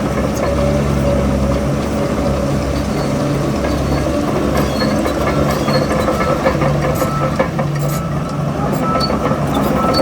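Heavy diesel earthmoving machinery running steadily, with scattered light clanks and knocks in the second half.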